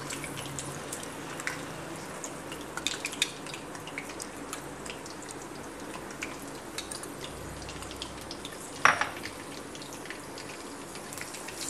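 Onion paste frying in hot oil in a wok: a steady faint sizzle with scattered small pops and crackles. A brief, louder knock about nine seconds in.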